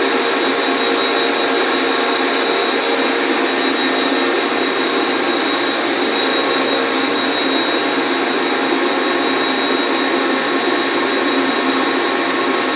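A motor running steadily with a whine over a constant rushing hiss, neither rising nor falling.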